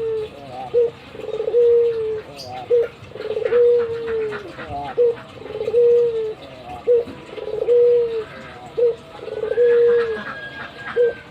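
An albino Barbary dove (puter) giving its repeated two-part coo: a short note, then a longer held one, about every two seconds. This is the bird's head-bobbing display call.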